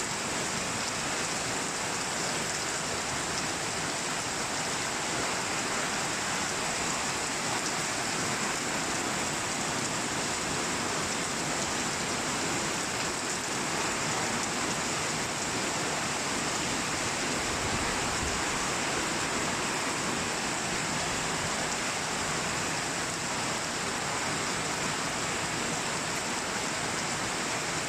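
Heavy rain falling steadily in a downpour: a constant, even hiss of rain with no breaks.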